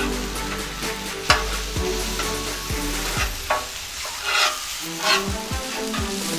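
Stir fry of rice, chicken and vegetables sizzling on a Blackstone flat-top griddle, with a spatula scraping and turning it several times.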